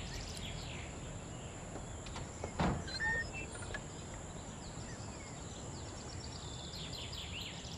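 Small birds chirping now and then over a steady outdoor hiss, with one short thump about two and a half seconds in.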